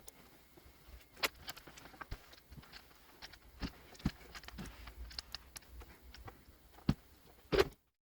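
Irregular light clicks and taps, about a dozen spread over several seconds, from fabric and sewing tools being handled on a work table. Near the end the sound cuts off suddenly into silence.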